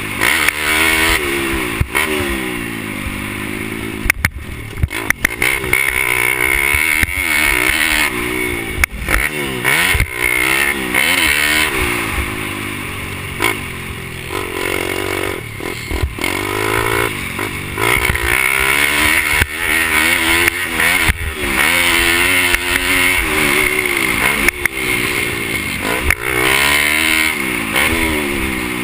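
Pit bike's small single-cylinder four-stroke engine racing, its pitch rising and falling again and again as it revs through each acceleration and backs off. A few sharp knocks and clatter come through along the way.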